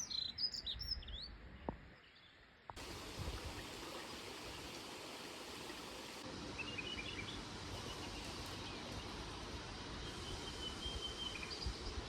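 A dunnock singing a short, quick high warble in the opening second or so. After a brief drop-out, a steady outdoor hiss carries only a few faint, scattered bird notes.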